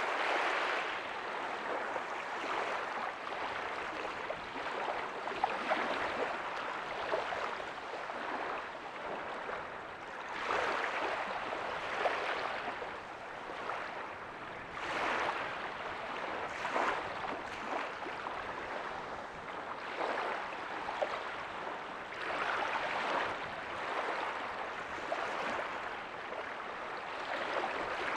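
Small waves breaking softly on a beach: a steady hiss of surf that swells with each wave every few seconds and then falls back.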